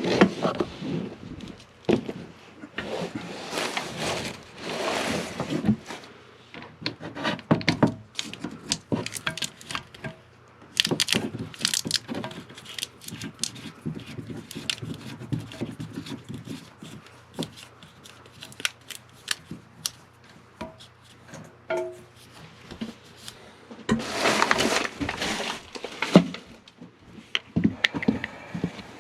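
Hand-tool work on a toilet's closet bolts and hardware: scattered metallic clicks and knocks, with several longer stretches of scraping.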